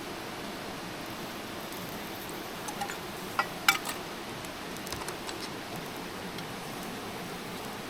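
A steady hiss with a handful of short, sharp clicks and ticks in the middle, the loudest about three and a half seconds in.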